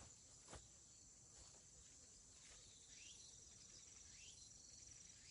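Near silence: faint outdoor ambience with a steady high insect trill, a few brief rising bird chirps, and one light click about half a second in.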